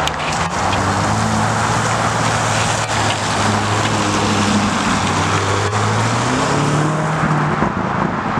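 Car engine running steadily with road and exhaust noise, its pitch stepping up about six and a half seconds in as the revs rise.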